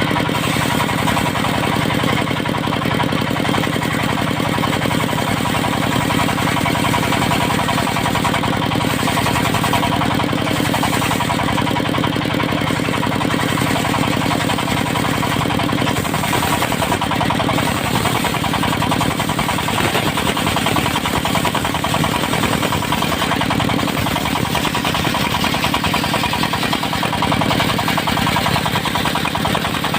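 The engine of a portable circular sawmill running steadily; its sound shifts slightly about halfway through.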